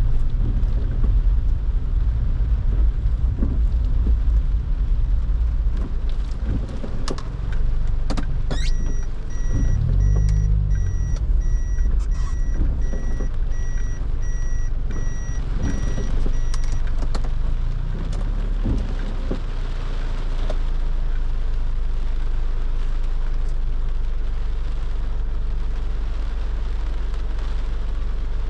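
Car driving in the rain: steady road and rain noise over a low engine rumble. In the middle comes a run of quick electronic beeps lasting about eight seconds.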